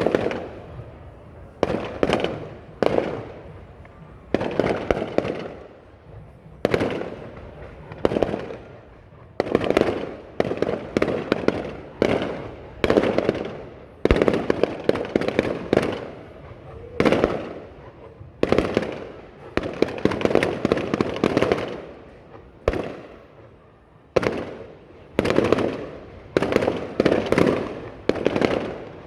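Aerial fireworks display: shells bursting one after another every second or two, each sharp bang fading off in a crackle, sometimes several overlapping in quick succession.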